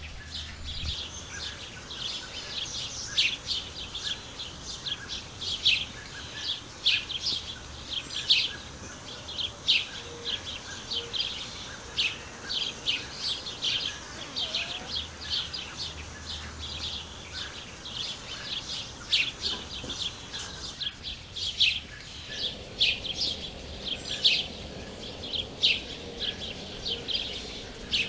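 Garden birds chirping: a dense run of short, high calls, several a second.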